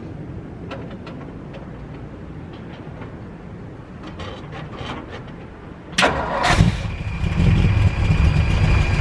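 1958 Ford F100's 292 Y-block V8 firing on starter fluid about six seconds in and running loud and uneven: a cold start after sitting for over a year.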